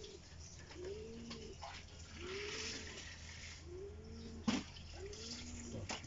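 A bird cooing over and over, four rise-and-fall calls about a second and a half apart, over a steady low hum. A single sharp click sounds about four and a half seconds in.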